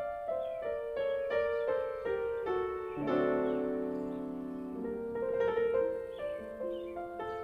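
Background piano music: a run of quick single notes, then fuller held chords from about three seconds in.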